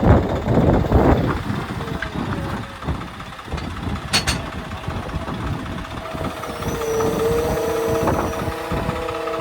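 Heavy diesel machinery engine running, loudest at the start, with a sharp metallic clank about four seconds in and a steady whine joining near the end.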